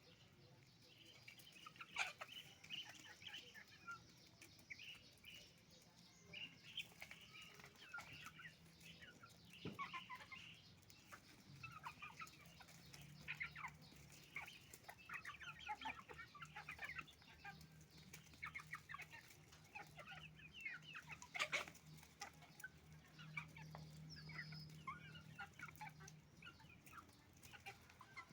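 A flock of hens and roosters clucking, with many short overlapping calls through the whole stretch and a couple of louder sharp calls.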